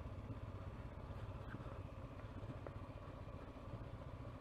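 Honda CB500X's parallel-twin engine running steadily and quietly, a low even pulse with no change in revs.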